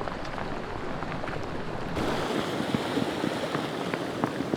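Flash-flood water rushing down a desert riverbed: a steady churning noise of moving water with many small splashes and knocks, a little fuller from about halfway through.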